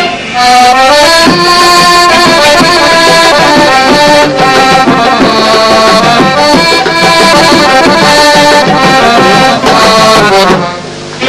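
Arabic orchestra playing an instrumental melody in a traditional Middle Eastern style, with a short dip in loudness near the end.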